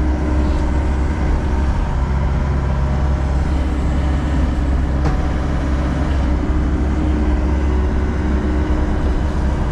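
John Deere 60G compact excavator's diesel engine running steadily under working revs, a constant low rumble with a steady hum.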